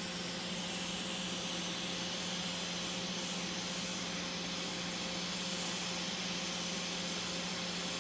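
Hot-air rework station blowing steadily, heating the CPU of an iPhone X logic board to loosen it. A constant rush of air with a low hum under it.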